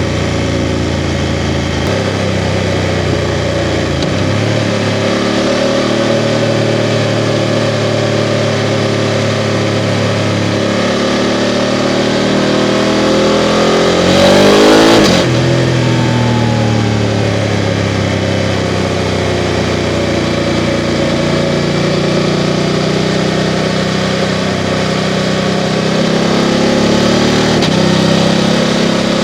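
BMW F 750 GS parallel-twin engine running under way, its note rising and falling with the throttle. About halfway through comes a brief, louder surge whose pitch rises and then falls.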